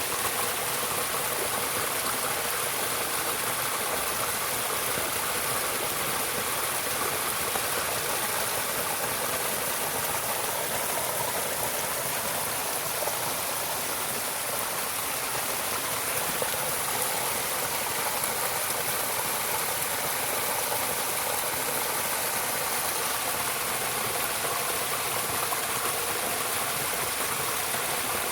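Stream water flowing steadily, an even rushing sound with no breaks.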